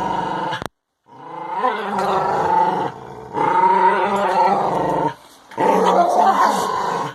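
Dogs growling in long continuous rumbles while playing tug-of-war, breaking off briefly about a second in and again near five seconds.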